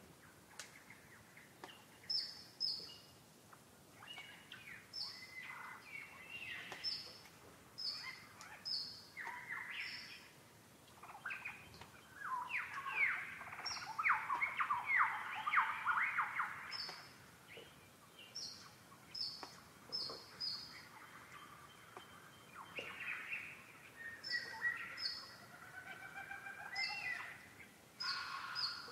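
Several wild birds calling and singing: short high chirps, often in pairs, repeat all through, over varied lower song that grows busiest and loudest in the middle.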